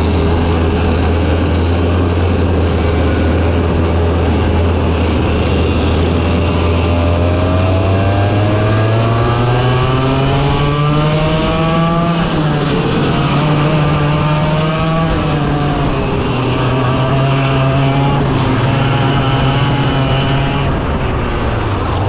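100cc racing kart engine running hard, its pitch holding low at first, climbing steadily about a third of the way in, then dipping and rising again as it lifts off and accelerates, with a drop in revs near the end.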